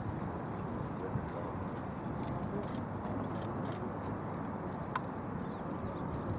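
Small birds chirping in quick, repeated short notes over a steady low background rumble.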